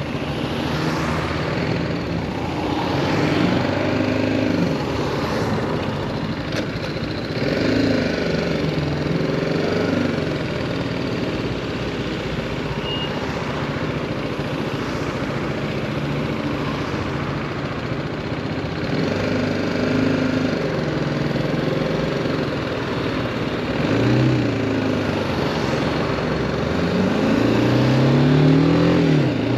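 BMW G310R's single-cylinder engine running at low revs in slow traffic, mostly steady, with short rises in revs several times. The biggest rise comes near the end, and the revs drop as it changes gear.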